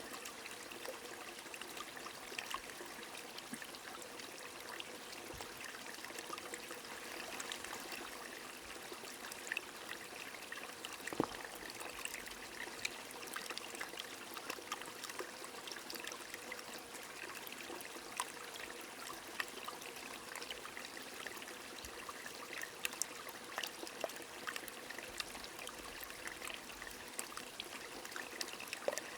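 A stream flowing under gentle rain: a steady watery hiss, dotted with many small drop taps and one louder tap about eleven seconds in.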